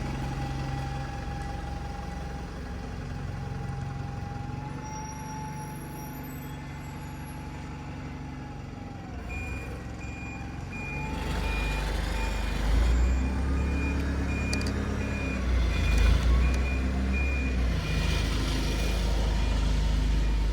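A heavy diesel vehicle running with a steady whine, then a reversing alarm starting about nine seconds in, beeping at a steady pace of a little over one beep a second, as the engine rumble grows louder while it backs up.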